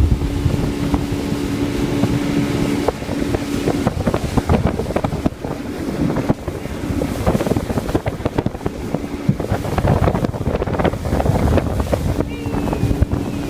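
Motorboat engine running, a steady hum under heavy wind buffeting on the microphone, with many short knocks and splashes.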